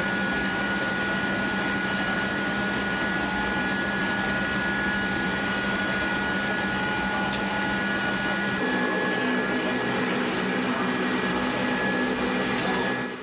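C-5M Super Galaxy's turbofan jet engines running with a steady rushing noise and high-pitched whines. About two-thirds of the way through, the mix of whining tones shifts as a new, lower set comes in.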